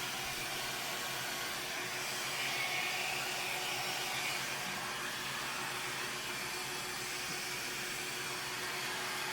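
Hair dryer running steadily, blowing poured acrylic paint across a wooden model car in a Dutch pour; an even rush of air with a faint steady hum.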